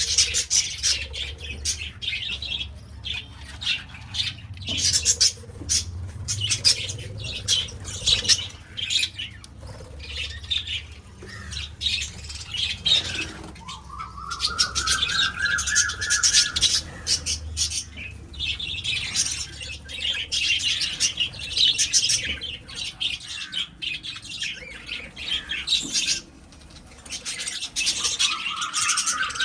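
A colony of budgies and lovebirds in an aviary, many birds chirping and squawking at once in a dense, continuous chatter. A long whistle-like tone rises and then falls about midway through, and again near the end.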